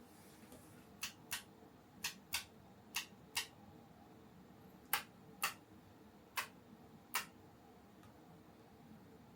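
Sharp, short clicks, mostly in quick pairs, about ten in all over the first eight seconds, from small hard parts and tools being handled during assembly of a plastic R/C truck kit.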